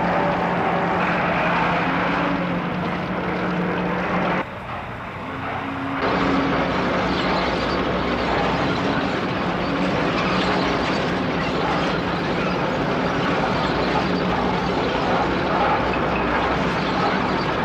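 Steady mechanical rumble with a low hum, typical of a sci-fi machine or vehicle sound effect. It drops away suddenly about four and a half seconds in and comes back about a second and a half later.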